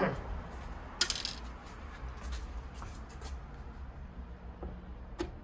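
Small metal clinks and taps: T10 Torx screws from an iMac being dropped onto a hard surface. One sharp, ringing clink comes about a second in, followed by a few lighter ticks.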